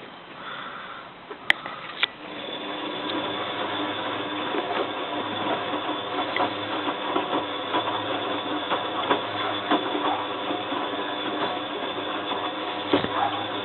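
Bosch WFF2000 washing machine mid-programme: two clicks, then about two seconds in the machine starts up with a steady mechanical whirr and a patter of light ticks that keeps going.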